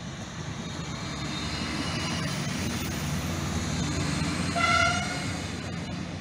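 Siemens Desiro diesel multiple unit running past, a steady rumble of engine and wheels on the rails that swells as it goes by. About four and a half seconds in, a short horn toot sounds.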